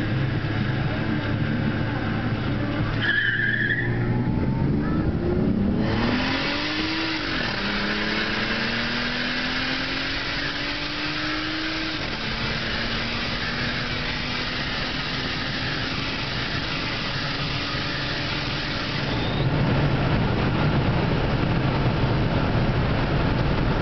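Toyota Aristo engine pulling hard from a standstill. It climbs in pitch through the gears, with the note dropping at upshifts about seven and twelve seconds in, while a steady rush of road and wind noise builds. Near the end the engine note fades into the noise.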